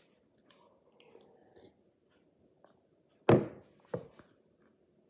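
Quiet chewing of a bite of croissant with a cookie-dough filling, then a loud exclaimed "Oh" a little over three seconds in.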